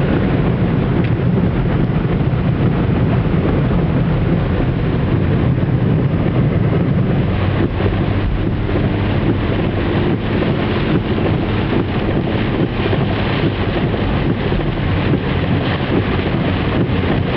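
Car driving through floodwater in heavy rain: a steady engine hum under the rush and splash of water around the car, with many small knocks of rain and spray against it.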